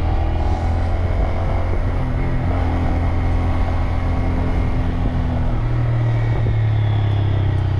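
Motorcycle engine running as the bike is ridden. About five and a half seconds in, its pitch steps up and holds.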